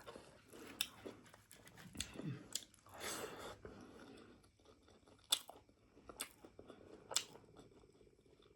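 A person chewing a tough piece of water-buffalo meat skin, with scattered sharp clicks and wet mouth sounds.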